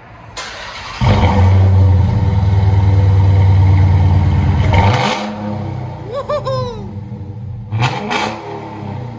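2021 Dodge Challenger Hellcat's supercharged 6.2-litre Hemi V8 starting up through Black Widow mufflers with the rear resonators deleted: it catches about a second in, holds a loud, steady high idle for about four seconds, then drops to a lower idle.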